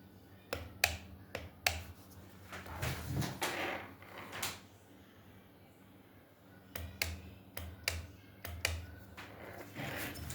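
Mosaic Palette filament splicer at work: a steady low hum under irregular sharp clicks in two clusters, with short whirring bursts of about a second in between.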